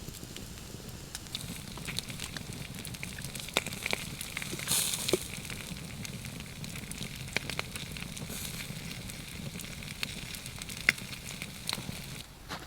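Wood fire crackling, with scattered sharp pops and a brief louder hiss about five seconds in.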